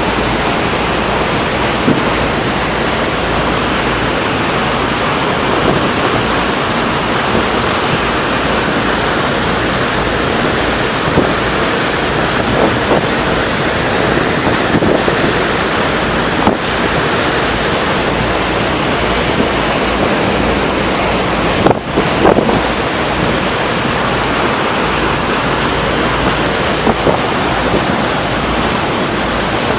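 Steady, loud rushing of wind and sea, with a short dip and a couple of small knocks a little past the middle.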